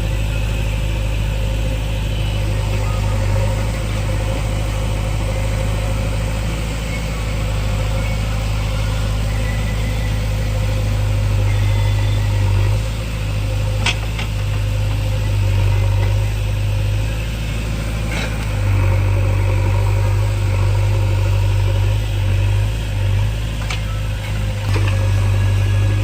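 JCB backhoe loader's diesel engine running steadily with a deep drone, with a few sharp knocks over it.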